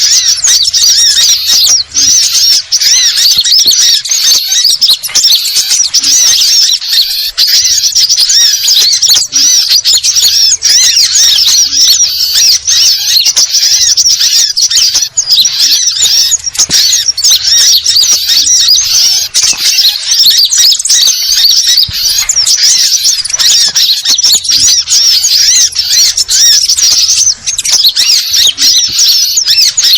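Dense, continuous chorus of small birds' high-pitched chattering and scolding calls, a 'burung ribut' bird-lure mix led by sunbirds.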